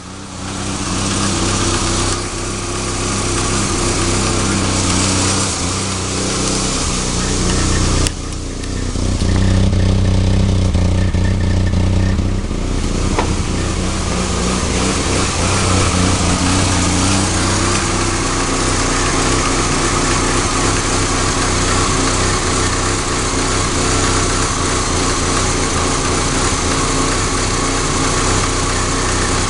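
A 1991 Nissan 240SX's 2.4-litre KA24DE four-cylinder engine idling roughly, a steady engine note with a sudden change in tone about eight seconds in.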